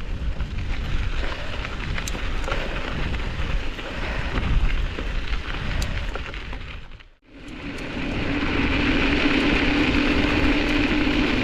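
Wind buffeting and rushing over the microphone while riding a mountain bike in high winds. The sound drops out briefly about 7 seconds in. After that the noise comes back brighter, with a steady hum running under it.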